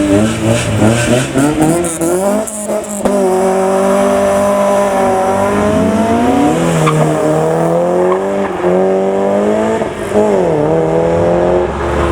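Modified car engine revved hard as the car pulls away, its pitch climbing in quick sweeps, then held high for several seconds. Near the end it drops and climbs again.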